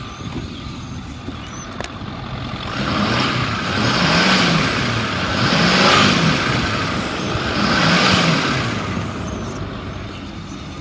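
Ford F-550's 6.4-liter Power Stroke V8 diesel idling, then revved up three times, its pitch rising and falling with each rev before dropping back to idle. It revs up nice and responsive and idles smooth: a healthy-sounding engine.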